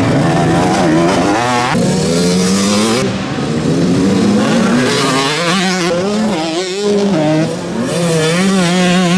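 Motocross motorcycle engines racing on the track, their pitch rising and falling as the riders open and close the throttle, with one long climb in pitch about two seconds in.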